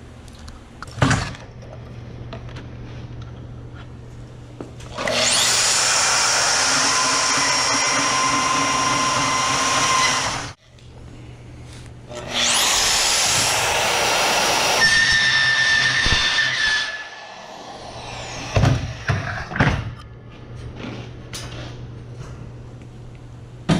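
Angle grinder grinding down the ends of steel tube posts in two runs of about five seconds each, the second winding down with a falling whine. A few sharp metal knocks come about a second in and again after the grinding.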